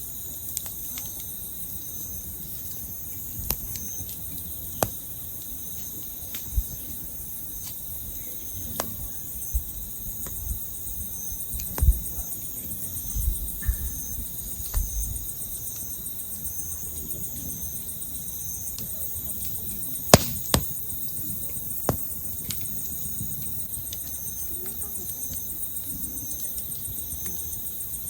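Campfire wood crackling, with about a dozen sharp pops scattered through, a small cluster with a low rumble around the middle, over steady night-time insect chirping.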